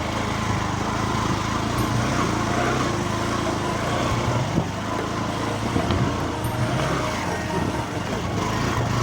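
Motorcycle engine running steadily, with a dense rushing noise over it.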